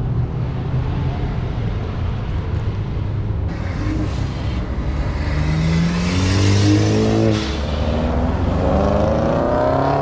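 A car engine revving and accelerating away, its pitch rising twice: once around the middle, which is the loudest part, and again near the end, over a steady engine rumble.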